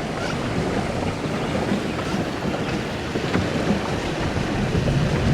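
Wind buffeting the microphone over the steady wash of water churned by a pedal boat's paddle wheel.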